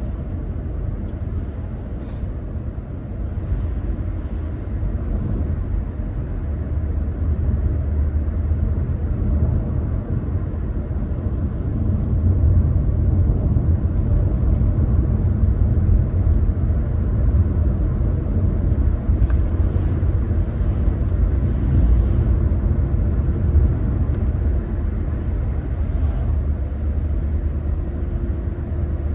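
Car driving: a steady low rumble of road and engine noise that grows a little louder partway through, with a few faint ticks.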